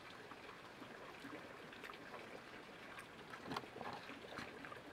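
Faint chewing of a fried cheese spring roll: a few soft mouth clicks and crunches over a low steady hiss, the loudest two near the end.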